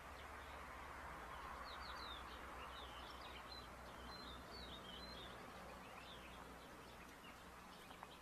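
Faint bird chirps: a quick run of short, high sweeping notes lasting about three and a half seconds, with a few more a little later, over a steady background hiss and low hum.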